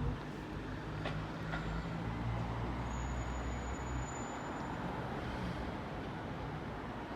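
CrossCountry Super Voyager diesel multiple unit running in slowly, its underfloor diesel engines giving a steady low rumble and hum.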